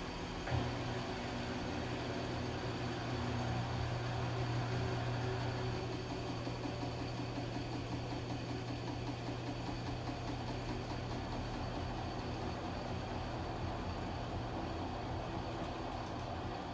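Washing machine running with a steady low motor hum and a faint high whine. There is a single sharp knock about half a second in, and the hum eases a little about six seconds in.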